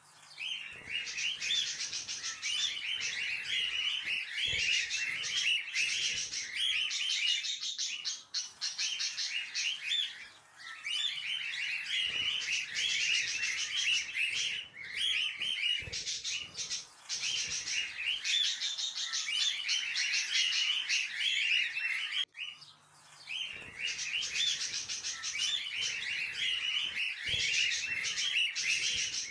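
A dense, continuous chatter of many small cage birds chirping at once, with brief breaks several times.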